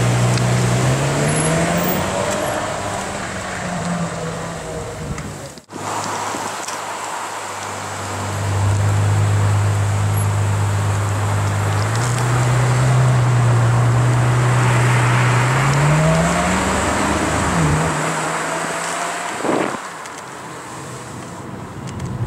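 Ferrari F12 Berlinetta's V12 engine running at low revs as the car drives slowly through traffic. Its note climbs about a second in and again near the end as it accelerates gently.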